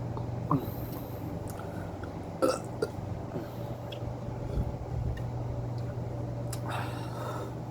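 A person burping after a large meal, with a few short clicks over a steady low hum.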